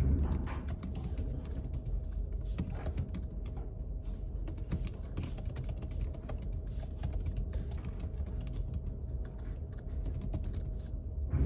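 Typing on a computer keyboard: an irregular run of quick key clicks over a low, steady hum.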